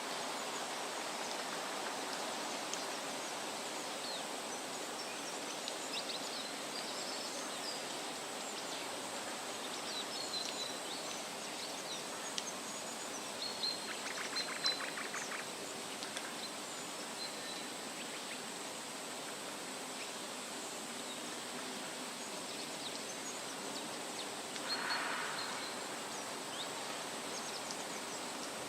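Steady wind rustling through leafy trees, with scattered short, high bird chirps throughout. A rapid trill comes about halfway through, and another brief call comes near the end.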